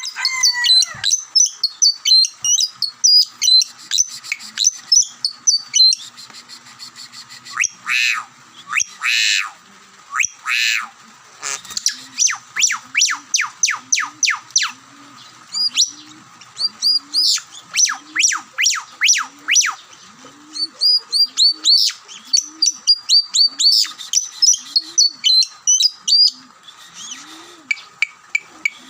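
Pet lovebirds chirping in rapid high bursts, with a few louder harsh squawks about eight to eleven seconds in.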